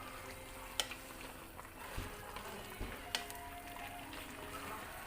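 Pot of fish pochero simmering quietly on the stove, with a few sharp clicks of a utensil or lid.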